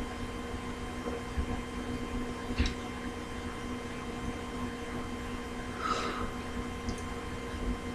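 A steady faint electrical hum with a couple of small clicks and taps, about two and a half and six seconds in.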